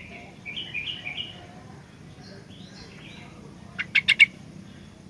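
Sooty-headed bulbul (kutilang) singing a run of quick, bright chirping notes, with a few more notes a little later. About four seconds in come four sharp clicks in quick succession, louder than the song.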